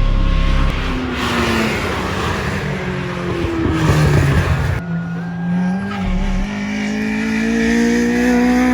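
Race cars on track, engines running hard with tyres squealing. After an abrupt cut about five seconds in, one engine rises steadily in pitch as it pulls up through the revs.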